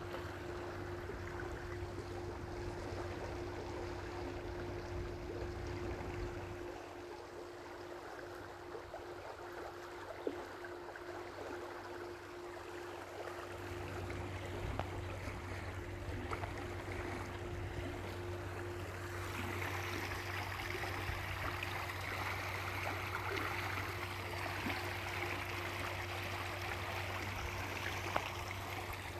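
Stream water running steadily, with a low rumble underneath that drops away for several seconds near the middle. The rushing grows louder and brighter about two-thirds of the way in.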